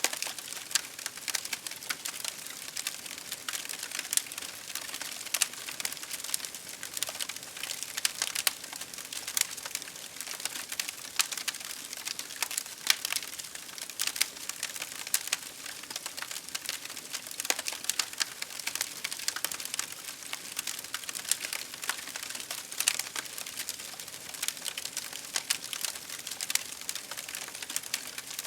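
Campfire crackling, with many sharp, irregular pops and snaps over a steady hiss of rain.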